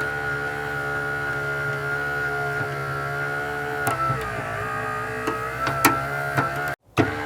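Small electric motor of a remote-control toy vehicle whining steadily, its pitch dipping briefly a little past halfway, with a few sharp clicks.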